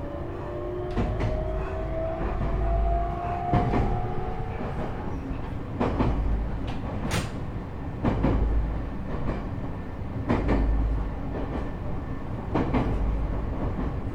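JR East E127-series EMU motor car with a Toyo GTO-VVVF inverter, heard from inside the car. The motor and gear whine rises in pitch over the first few seconds as the train accelerates, then fades, leaving the wheels clacking over rail joints about every two seconds over a low rumble. This car's gear whine carries an extra tone a semitone above its usual minor-seventh interval, the sign of an abnormal-sounding gear unit.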